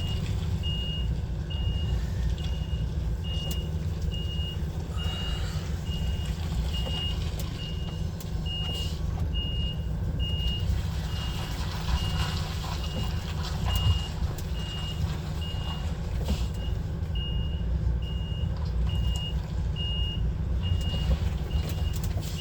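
Lorry's reversing alarm beeping steadily, about one and a half beeps a second, over the low, steady running of the truck's diesel engine. The alarm signals that the HGV is in reverse, backing into a parking space.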